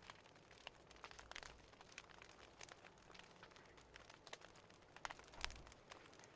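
Faint crackling of a wood fire: irregular small pops and snaps over a soft hiss, with one louder pop about five seconds in.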